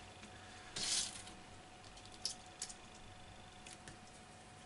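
Filling knife working watery plaster filler: one short wet scrape about a second in, then a few light clicks and taps.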